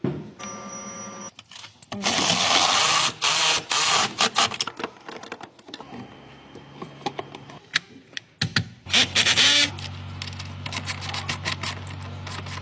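Workshop repair noises: clicking and rattling of tools with loud bursts of a power tool, then a steady low hum begins about ten seconds in.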